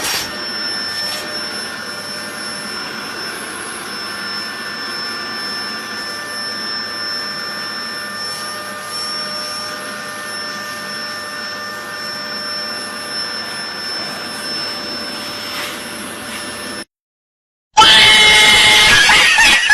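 A steady whirring motor noise with a few constant whining tones, like a running household appliance, cutting off abruptly about 17 seconds in. After a moment of silence, a louder, busier sound starts near the end.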